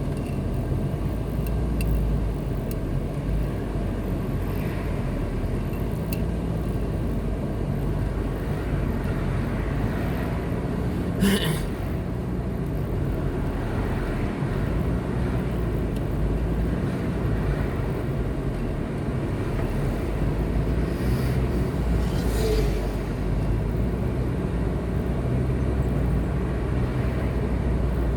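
Car driving along a highway: steady low road and engine rumble, with a brief sharp knock about eleven seconds in.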